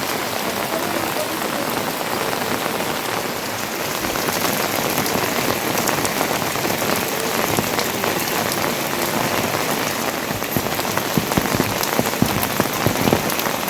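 Heavy rain falling steadily, with sharp individual drops or drips hitting close by more often in the last few seconds.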